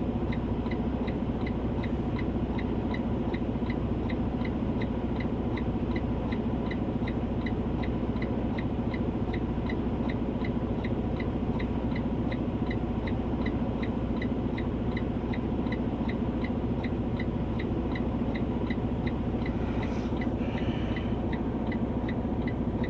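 Semi truck's diesel engine idling, a steady low hum heard from inside the cab, with a regular high-pitched tick about two and a half times a second.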